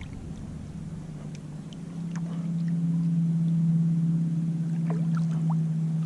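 Motorboat engine running steadily, a low drone that comes in about two seconds in and then holds.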